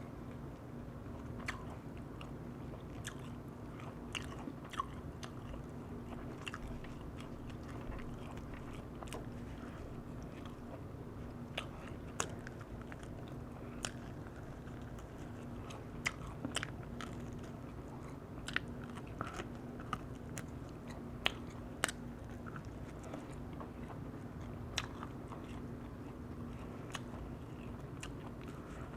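Close-up chewing and biting of crispy oak-firewood-roasted chicken, with irregular sharp crunchy clicks, over a steady low hum.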